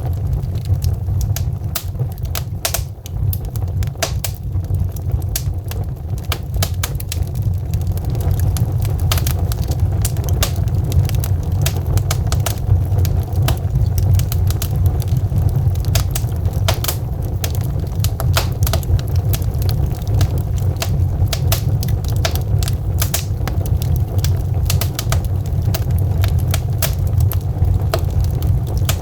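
Burning logs in a fireplace, crackling with many irregular sharp pops and snaps over a steady low rumble.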